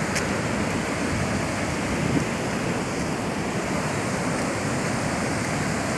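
Large waterfall in monsoon flood, a steady, even rush of falling water on the Indravati river at Chitrakoot Falls.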